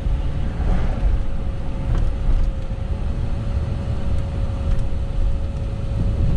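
Steady low rumble of a car in motion, road and engine noise heard from inside, with a faint steady hum above it.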